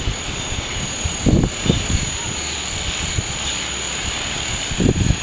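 Strong wind blowing across the microphone, with low buffeting gusts about a second in and again near the end.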